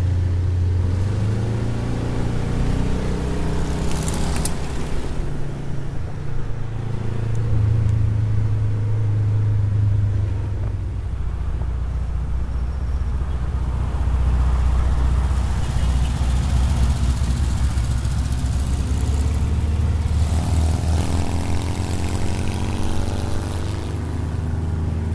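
Air-cooled flat-four engine of a Volkswagen Type 181 (Thing/Safari) running on the move, heard from inside the car over road noise. Its low drone changes pitch as the car speeds up and slows through the traffic, with a brief burst of noise about four seconds in.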